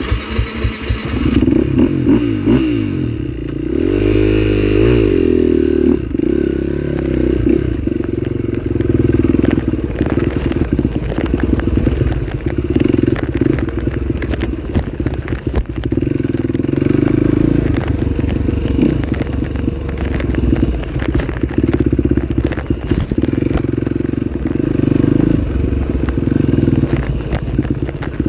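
Dirt bike engine coming in suddenly, revved up and back down about four seconds in, then running under changing throttle with a rattling clatter.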